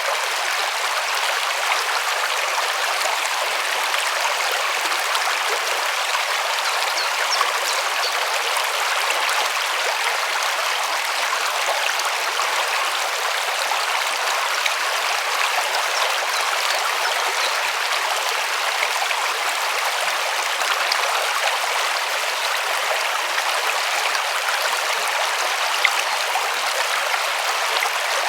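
River water rushing and splashing in a steady, even stream.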